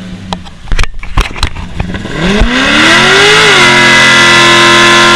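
A car engine revs up sharply about two seconds in and is then held at steady high revs, very loud. A few sharp knocks come before it.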